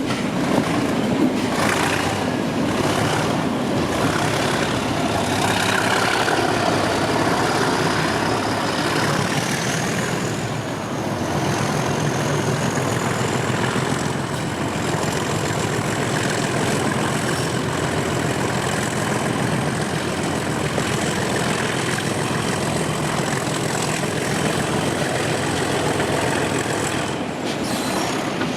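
English Electric 12CSVT diesel of a Class 37 locomotive working under power over the running noise of the train on the rails. Its turbocharger whistle climbs over about ten seconds, then holds a steady high note.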